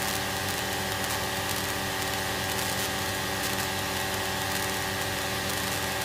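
Light aircraft's piston engine and propeller drone in cruise, heard from inside the cabin. It runs at a steady pitch and level, with a constant hum of many even tones over a rushing noise.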